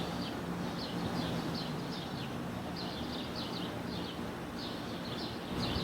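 A bird chirping repeatedly, short high chirps two or three a second at an uneven pace, over a steady low background hum.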